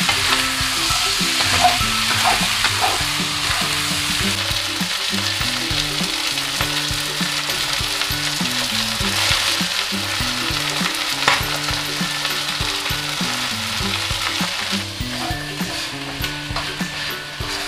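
Chicken pieces and ginger sizzling in hot oil in a stainless steel wok, stirred with a spatula that scrapes and knocks against the pan now and then.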